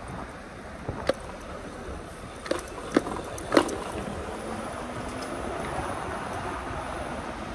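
Steady wind and road noise from riding a fat-tyre e-bike, with a few sharp knocks or rattles about one to four seconds in.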